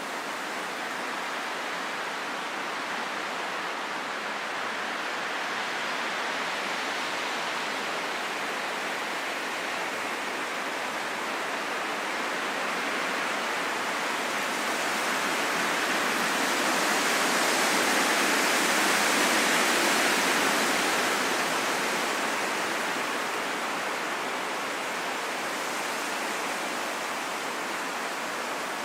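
Wind blowing steadily as a smooth rushing noise, swelling into a stronger gust around two-thirds of the way through and then easing back.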